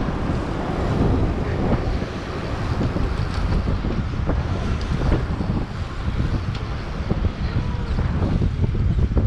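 Wind buffeting the microphone of an action camera carried on a moving bicycle, a steady low rushing rumble with light street noise underneath.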